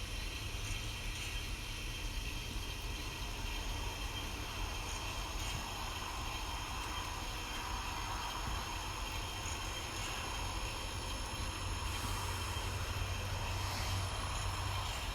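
N-scale model train running on the layout track: a steady whir with a low hum that swells and eases over several seconds as the train moves.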